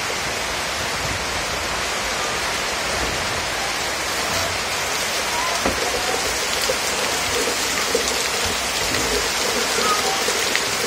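Heavy rain pouring down steadily, a dense even hiss, with a few faint knocks.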